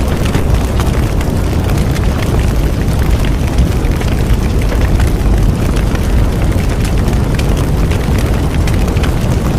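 Bonfire burning: a steady low rush of flames with frequent sharp crackles and pops throughout.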